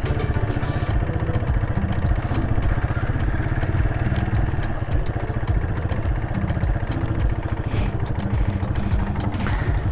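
Small motorcycle engine running steadily close by, with many sharp clicks and crackles over it throughout.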